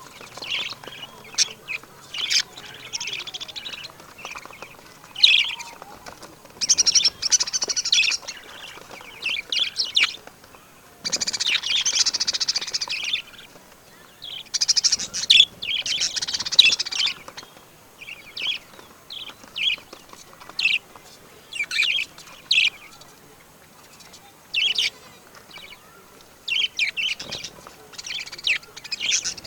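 Birds chirping and calling: many short, high chirps in quick succession, broken by a few longer, harsher calls lasting a second or two.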